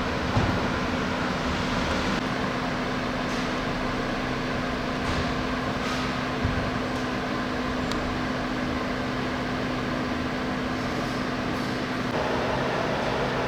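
2024 Audi S3 Sportback's 2.0-litre turbocharged four-cylinder at a steady cruise, heard from inside the cabin: a steady engine drone under tyre and wind noise. The road noise grows louder about twelve seconds in.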